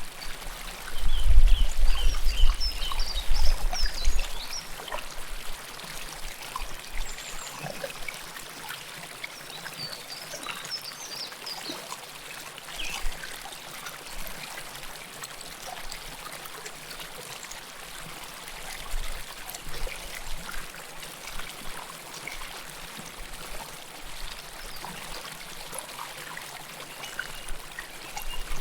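River water flowing and trickling close up, a steady rushing. A loud low rumble lasts about three seconds near the start, and short high bird chirps come in the first few seconds and again about ten seconds in.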